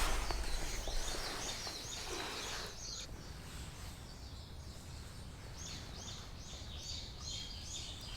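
A bird sings two runs of quick repeated high notes, about three a second, the second run starting past the middle, over a steady low outdoor rumble.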